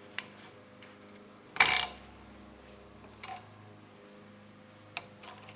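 Metal pick clicking and scraping inside a brake master cylinder bore as the return spring is worked loose. There are a few light clicks and one louder scrape about a second and a half in, over a faint steady hum.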